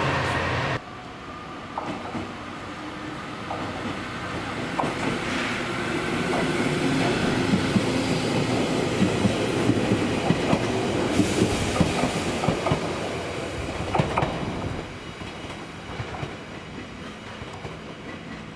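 JR Kyushu 817 series electric train pulling out and passing close by, its wheels clicking over the rail joints in quick succession. The clicking grows louder toward the middle and fades after about fifteen seconds. A diesel railcar's engine is heard briefly at the start, cut off under a second in.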